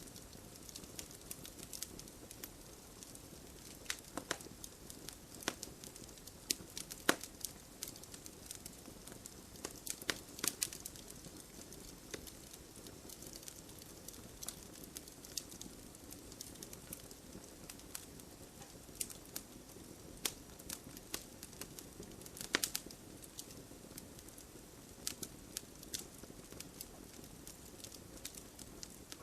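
Wood fire crackling, with frequent irregular pops and snaps over a steady low hiss of burning, a few sharper pops standing out.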